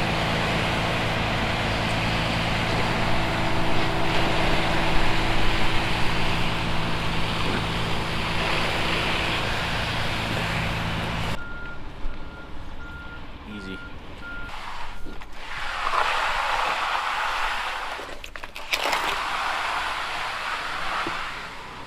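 A heavy vehicle engine runs steadily for about eleven seconds, then the sound changes abruptly. A reversing alarm beeps for about three seconds, followed by two bursts of hissing noise near the end.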